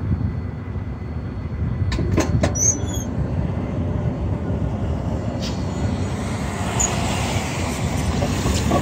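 Freight train cars rolling over a grade crossing: a steady low rumble of wheels on rail, with a few sharp clanks about two seconds in.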